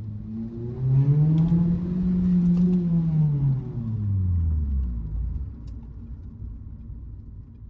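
2006 Acura RSX Type-S's K20Z1 four-cylinder engine through an Invidia N1 cat-back exhaust, accelerating. The exhaust note rises in pitch about a second in, holds for a couple of seconds, then falls in pitch and fades away.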